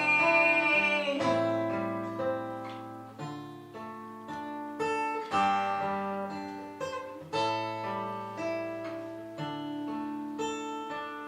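Acoustic guitar playing an instrumental passage without singing. A chord rings out and fades over the first second, followed by single plucked notes and chords, each one starting sharply and dying away.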